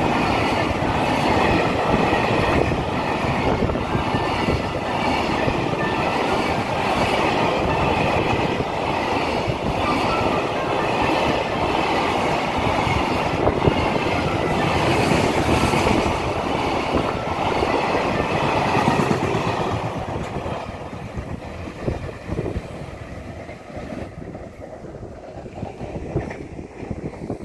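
Long freight train of container wagons passing through a station at speed: steady rolling noise of wheels on rail, fading away after about twenty seconds as the last wagons go by.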